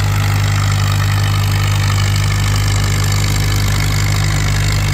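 Engine idling steadily, a constant low hum with no revving.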